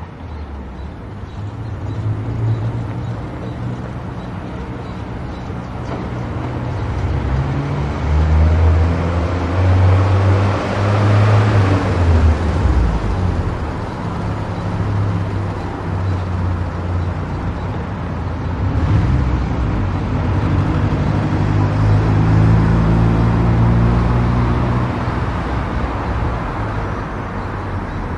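Car driving on an expressway: a low engine hum that shifts in pitch, over steady tyre and road noise that swells louder about ten seconds in.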